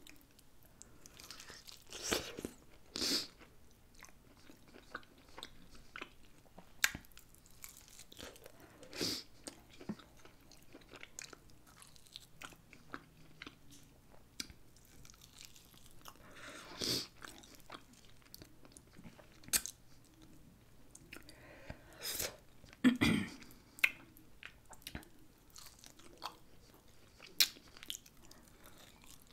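A person biting and chewing barbecued pork ribs close to a desk microphone. The bites and chews come in irregular short bursts with quiet gaps between them.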